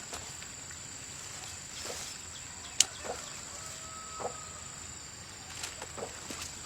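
Steady high-pitched drone of insects, with scattered light knocks and clicks of handling and one sharp click just under three seconds in.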